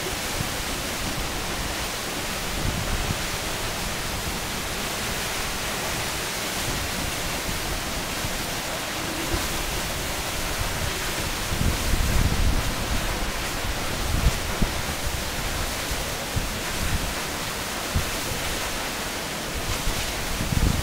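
Waterfall heard up close: a steady, dense rush of falling water, with low buffeting of spray and wind on the microphone about halfway through and again near the end.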